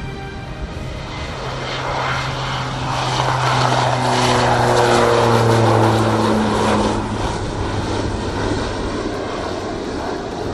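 KC-130 transport aircraft's four turboprop engines passing by: a propeller drone swells to its loudest about halfway through, its pitch dropping slightly, then fades away.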